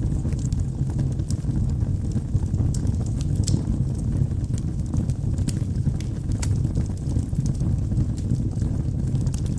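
Wood fire in a fireplace burning with a steady low rumble and frequent sharp, irregular crackles and pops from the burning logs.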